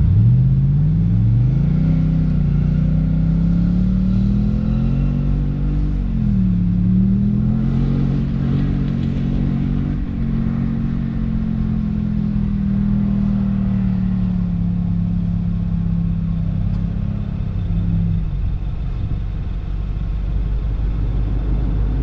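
A four-wheel-drive vehicle's engine revving hard under load as it drives at a sand dune. The revs rise over the first couple of seconds, dip briefly once about six seconds in, then hold high and steady until they drop away near the end, over a constant low rumble.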